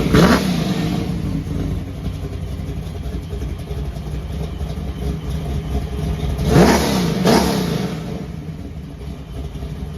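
Car engine running at idle, blipped once at the start and revved twice in quick succession about two-thirds of the way through.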